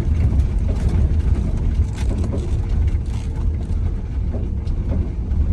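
Van driving slowly over a bumpy dirt road: a steady low rumble of engine and tyres, with scattered knocks and rattles as it jolts over the rough surface.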